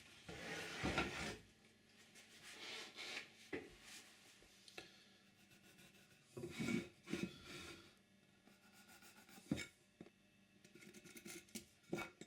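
Faint, short scraping and rubbing sounds on wood, in four brief spells separated by quiet.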